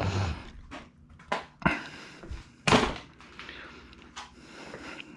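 Four or five sharp metallic knocks over about three seconds, the loudest near the middle, struck at the stuck valve of a Honda GX190 engine to try to free it.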